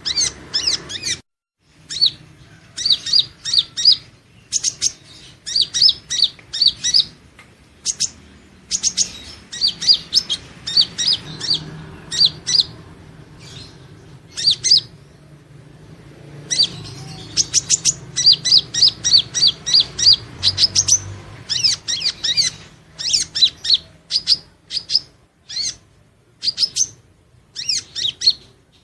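Purple-throated sunbird (Leptocoma sperata) singing: rapid high-pitched twittering chirps in short bursts of about a second, repeated again and again with brief pauses between.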